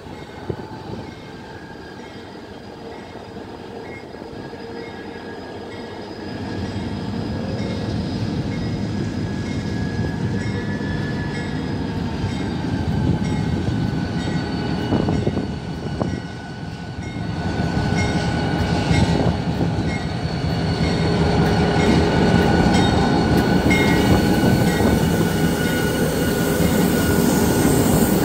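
Diesel-electric locomotive 8108 slowly hauling a passenger train in to the platform. The engine rumble grows louder from about six seconds in as the locomotive draws near and passes, and steady high squealing tones run throughout.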